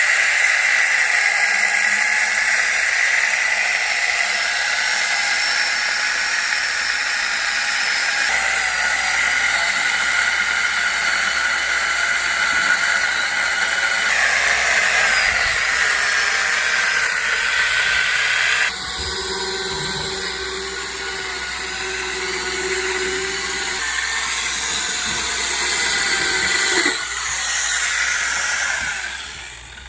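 Electric chainsaw made from an angle grinder with a chain-and-bar kit, running at high speed and cutting through a thick log. It gets quieter about two-thirds of the way through, drops again later and stops near the end.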